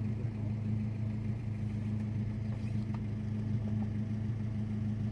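Car engine idling steadily at an even pitch.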